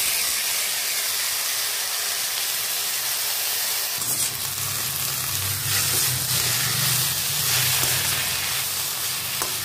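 Ground toor dal crumble and steamed, chopped flat beans (avarakkai) sizzling in hot oil in a metal kadai. A flat metal spatula stirs the mix near the end.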